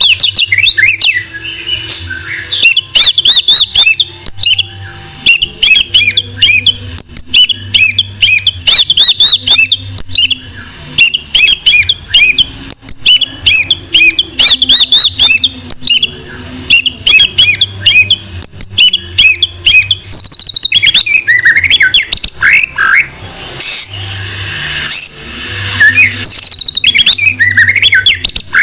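White-rumped shama (murai batu) singing loudly in a long run of rapid chirping phrases with short breaks, turning to more varied sweeping notes about two-thirds of the way through.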